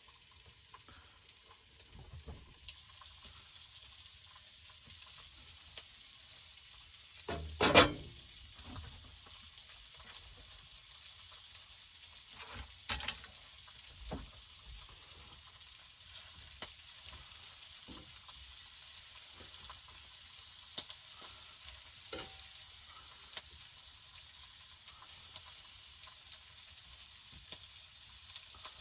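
Sausages sizzling in a frying pan, a steady hiss, with a loud clatter of a utensil against the pan about eight seconds in and smaller knocks around thirteen seconds.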